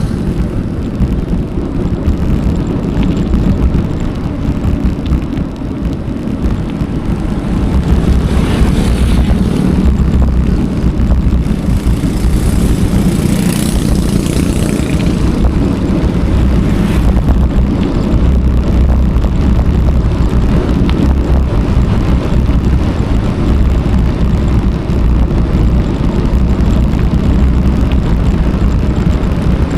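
Wind rumbling and buffeting on an action camera's microphone as a bicycle is ridden, a steady loud low rumble with a few brief louder gusts.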